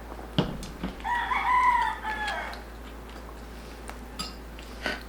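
A rooster crowing once: one drawn-out call of about a second and a half that falls away at the end. A few sharp clicks come before and after it.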